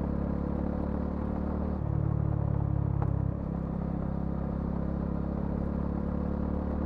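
Bajaj Dominar 400's single-cylinder engine and exhaust running at steady revs. It grows louder and deeper for about a second and a half, starting about two seconds in, then settles back.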